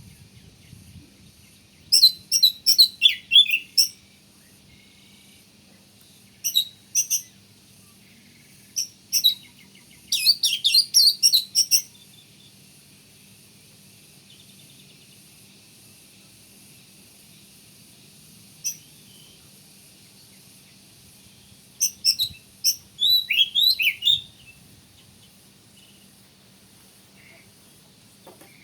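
Oriental magpie-robin singing: loud, rapid phrases of high chirps and whistled glides. The phrases come in several bursts a second or two long, with pauses of a few seconds between them.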